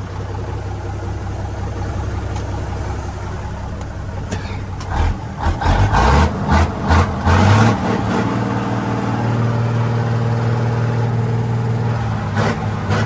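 Old dump truck's Cummins diesel engine running at idle, then revved in several short, loud blips about five seconds in, before settling into a steadier, stronger run.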